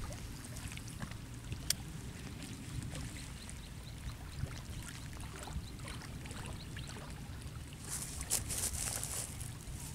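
Steady low wind rumble on the microphone with scattered faint clicks and light water sounds, and a few louder rustling bursts near the end.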